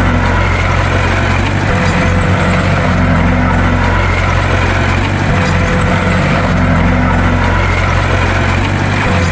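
Bulldozer's diesel engine running steadily and loudly, a deep drone whose note shifts slightly every few seconds.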